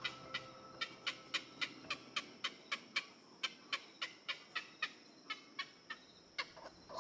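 A bird giving a rapid, regular series of short, sharp calls, about three to four a second, with a few dropping in pitch near the end.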